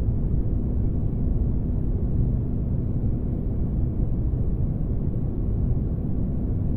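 Spaceship ambience for sleep: a deep, steady rumble of engine-like noise with a faint steady hum running through it, unchanging throughout.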